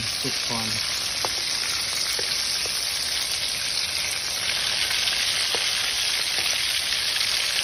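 Food frying in hot oil in a pan: a steady sizzling hiss with a few small pops.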